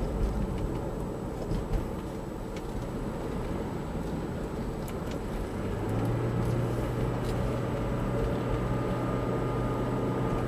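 Road and engine noise of a car driving, heard from inside the cabin. A steady low drone comes in about six seconds in and holds, and there are a couple of small knocks early on.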